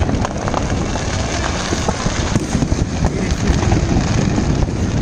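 Fireworks display: dense, continuous crackling and popping from many bursting shells, with no break.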